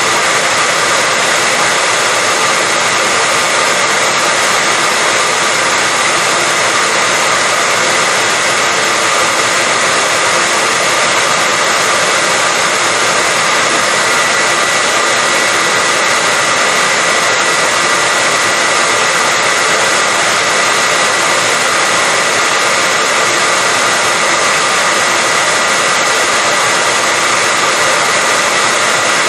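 Hair dryer running steadily, a constant blowing hiss with a steady whine from its fan motor, played as white noise to put babies to sleep.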